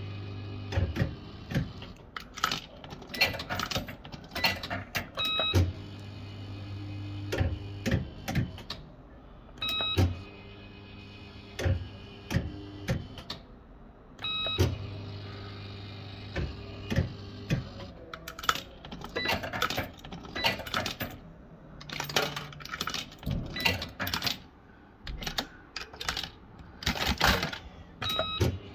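Bell-Fruit FireCracker fruit machine being played: spin after spin, each starting with a short electronic beep followed by a low motor hum and sharp mechanical clicks as the reels run and stop. A denser run of clicks and rattles fills the second half.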